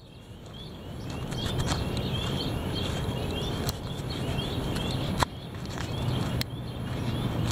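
Heavy wind blowing over the microphone as a low rumbling noise that rises out of a brief lull at the start. Through it a short high chirp repeats about twice a second, and a few sharp knocks come through.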